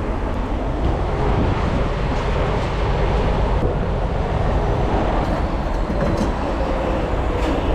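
Steady low rumble and hiss of an idling diesel semi-truck at a fuel pump, with a few faint ticks.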